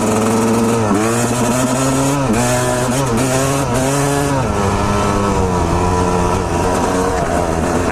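Honda CR250R two-stroke dirt bike engine under way, its pitch rising and falling several times as the throttle is opened and closed, then running steadier in the second half.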